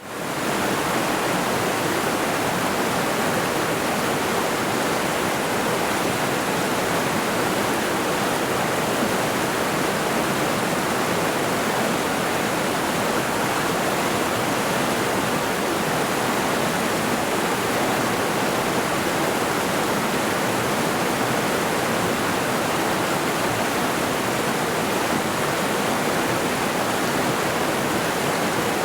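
Mountain river rushing steadily over rocks: a constant, even roar of flowing water, fading in at the very start.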